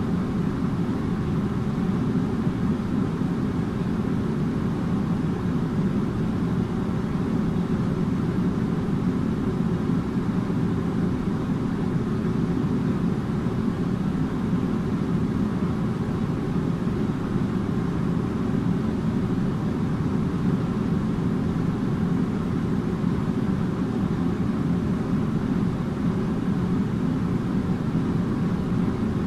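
Air conditioner running with a steady, even low hum and rush of air.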